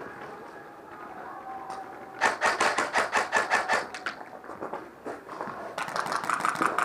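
Airsoft rifle firing full-auto, two rapid strings of shots at about ten a second, the first lasting about two seconds and the second starting near the end.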